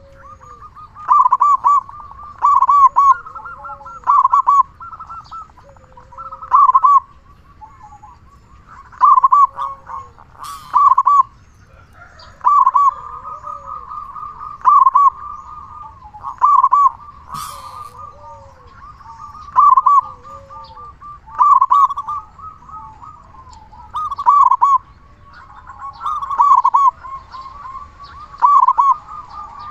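Zebra dove (perkutut) cooing: a loud, rolling coo phrase repeated about every two seconds, with softer cooing in between. Two sharp clicks come about a third and two thirds of the way through.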